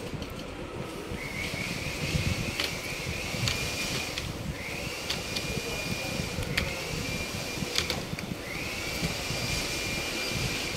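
A small electric motor whining in three runs of about three seconds, each rising in pitch and then holding steady, with a few sharp clicks between them, over a steady background hum.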